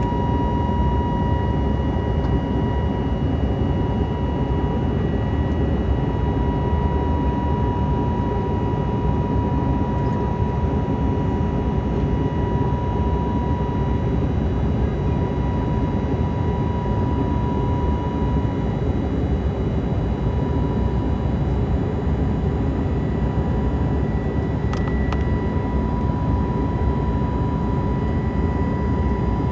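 Steady cabin noise inside an Airbus A320 airliner in flight: a constant low rushing drone of engines and airflow, with a steady high whine on top.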